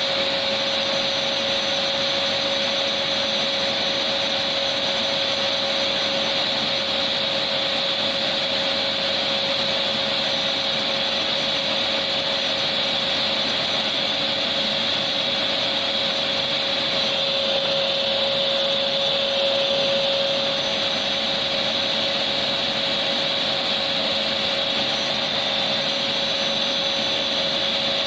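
Vacuum cleaner motor running steadily, a continuous rushing hiss of air with a steady high whine.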